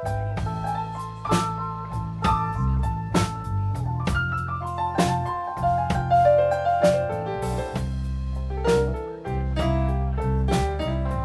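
Blues band playing an instrumental break: drums and bass keeping a steady beat under a lead line of quick runs of notes, with keyboard prominent.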